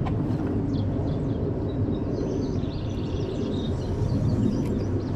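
Steady outdoor background rumble with faint, high bird-like chirps in the middle.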